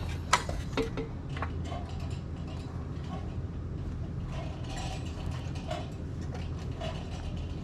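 A motorcycle jack being let down, its supports clicking in a few sharp ratchet clicks in the first second or so, then lighter scattered ticks.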